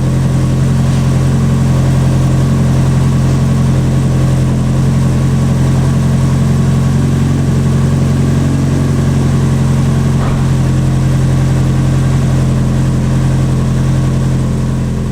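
Freshly rebuilt 2005 Subaru STI's turbocharged 2.5-litre flat-four engine, fitted with Cosworth pistons, idling steadily at an even pitch.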